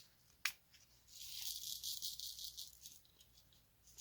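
Small resin diamond-painting drills rattling in a tray for about two seconds, after a single click about half a second in.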